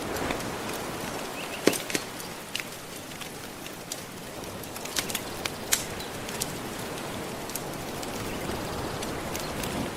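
Gentle ocean waves washing in, a steady hiss that swells near the start and again near the end, with the sharp pops and crackles of a wood fire scattered through it.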